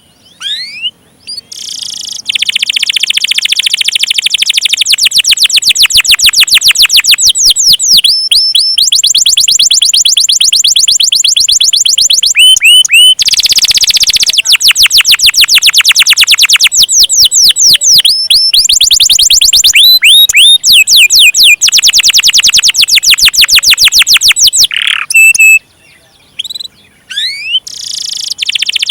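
Domestic canary singing loudly in long rolls: fast trills of rapidly repeated high notes lasting several seconds each, broken by short pauses and a few gliding whistles.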